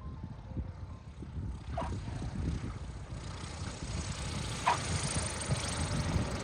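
1941 Aeronca Super Chief's engine running, with a steady low rumble and rising wind hiss, and two short sharp chirps about three seconds apart.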